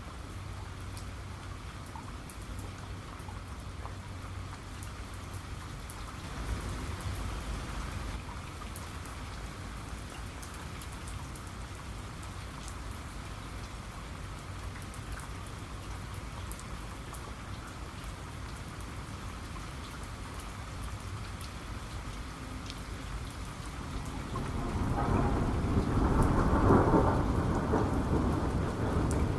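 Steady rain falling, with fine scattered drop ticks. A brief low swell of thunder comes about a quarter of the way in. Near the end a louder rolling thunder rumble builds and is the loudest part.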